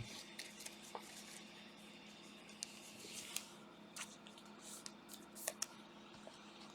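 Faint rustling and scattered light clicks of trading cards and packs being handled, over a low steady hum.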